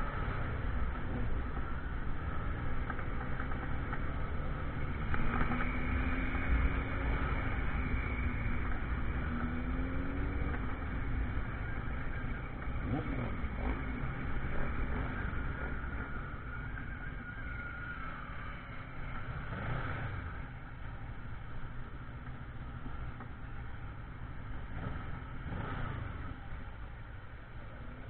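Motorcycle riding on the road: engine running under a steady low rumble, its pitch rising and falling a few seconds in, then the sound slowly eases off.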